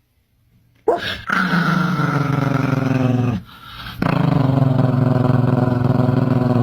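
A dog making two long, low, drawn-out growling howls, the first starting about a second in and the second after a short break.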